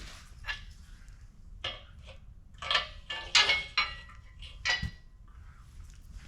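Steel parts of a folding engine hoist clinking and clanking as they are handled and fitted together, with a cluster of sharp metal knocks in the middle. The last knock rings briefly.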